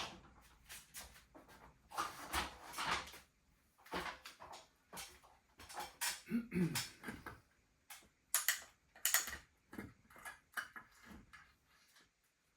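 Irregular metal clicks, clinks and knocks as the tension on a ceiling-hung spring balancer is adjusted by hand, with a short squeak about six seconds in.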